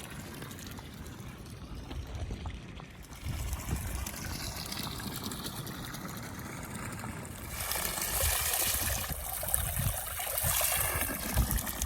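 Spring water trickling, with occasional low knocks. About seven seconds in the water sound turns louder and hissier.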